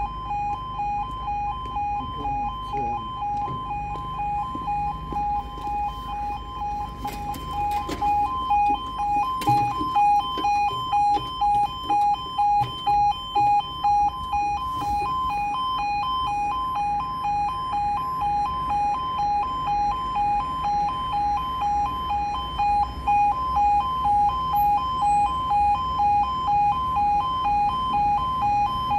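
Level crossing audible warning alarm sounding during a closure: a two-tone electronic alarm that switches between two pitches in an even pulse of about two beats a second. A few sharp knocks come in about seven to ten seconds in.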